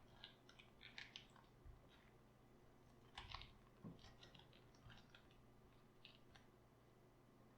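Faint, irregular crunching and crackling of raw cabbage being handled, with a louder cluster of crackles about three seconds in.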